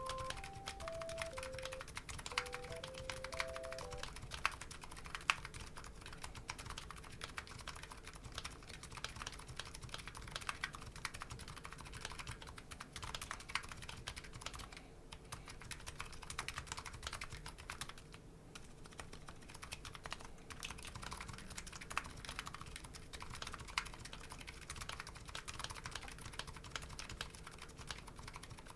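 Continuous typing on a custom keyboard with electro-capacitive (EC) MetaPulse switches and JCS-profile keycaps: a fast, uneven stream of keystroke clacks. A short melody of plain tones plays over the first few seconds.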